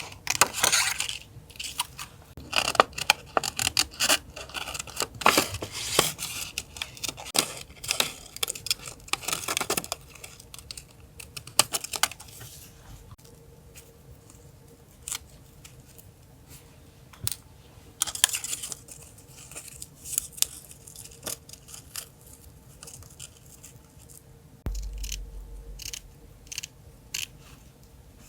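Paper and stickers being handled close to the microphone: dense rustling, crinkling and peeling for the first dozen seconds, then sparser taps and crinkles. A faint steady background hum runs underneath.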